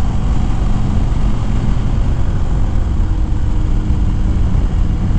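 Harley-Davidson Fat Bob V-twin engine running steadily at riding speed through a corner, a heavy low rumble with a faint engine tone that shifts slightly in pitch.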